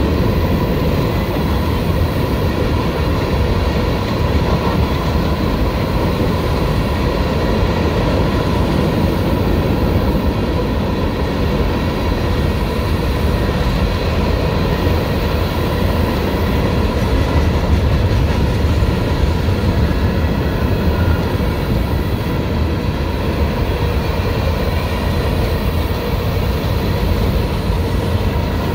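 Empty steel gondola freight cars rolling past close by: a loud, steady rumble of wheels on the rails, with a few faint steady higher tones above it.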